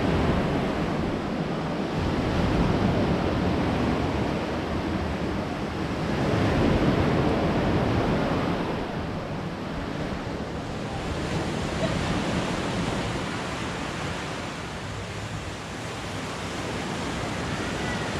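Sea surf washing onto a beach, the noise of the waves swelling and easing every few seconds.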